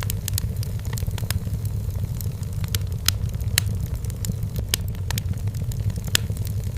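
Wood fire burning in a fireplace: a steady low rumble of the flames with frequent sharp, irregular crackles and pops from the burning firewood.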